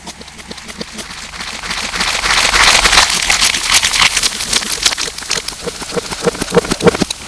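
Slime being squished close to the microphone: dense wet crackling and popping that grows louder about two seconds in, with sharper separate squelching clicks near the end. The sound is processed and distorted.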